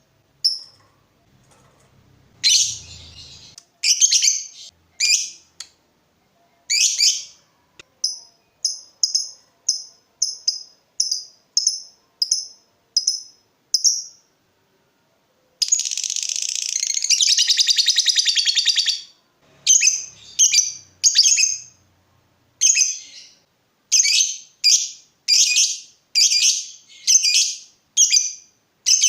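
Lovebird singing with sharp, high chirps repeated at about two a second, breaking about halfway into a dense buzzing trill that lasts about three seconds, then chirping again.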